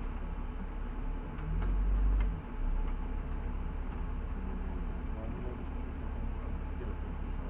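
Inside a LiAZ 6213 articulated city bus on the move: a steady low engine and road rumble, which swells for about a second near the start, with a couple of light clicks.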